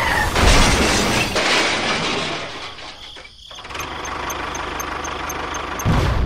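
Tractor engine running, with a brief dip just after the middle, then a steady rumble and a rapid light ticking about four times a second. A sudden low thump near the end.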